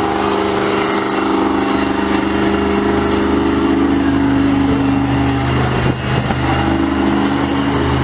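Large vehicle engine running steadily at an unchanging pitch, with a brief dip in level about six seconds in.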